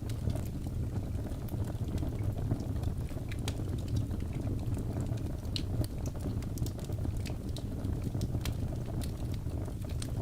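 Wood fire burning in a fireplace: a steady low rumble of flame with frequent sharp crackles and pops from the logs.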